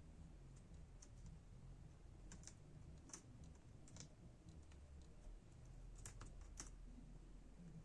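Faint, irregular small clicks and ticks from hands working on a laptop's keyboard and chassis, about eight in all, over a low steady hum.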